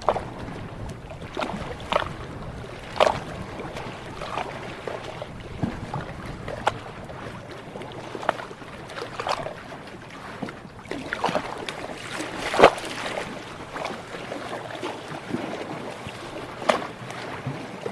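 Ocean water lapping and splashing: small sharp slaps come irregularly, about once a second, over a steady low wash.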